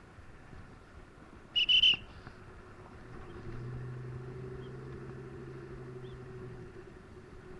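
A short, high-pitched chirp about one and a half seconds in, the loudest sound, then a steady low engine hum that builds from about three seconds in and fades near the end.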